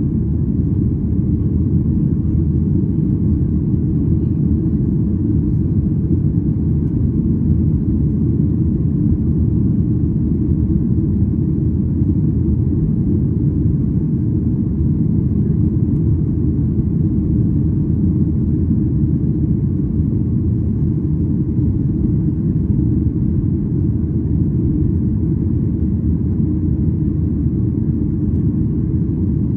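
Steady low rumble inside the cabin of a Boeing 737-800, the engine and cabin noise of the airliner, unchanging throughout.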